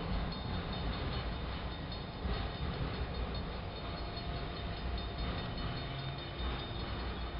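Freight train of autorack cars rolling past, a steady rumble of wheels on rail.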